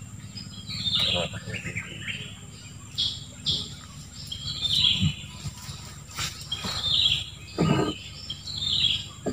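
A bird singing a short phrase that tumbles down in pitch, repeated every second or two, over a low steady hum.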